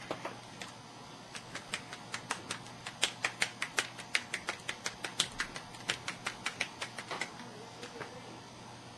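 A run of quick, irregular clicks of keys being pressed, about four a second, starting about a second in and stopping near the end.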